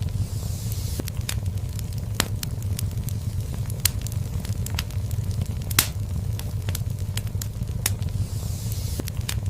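Fire in a fireplace crackling, with irregular sharp pops over a steady low rumble of the flames; one louder pop comes about six seconds in. A soft hiss swells briefly near the start and again near the end.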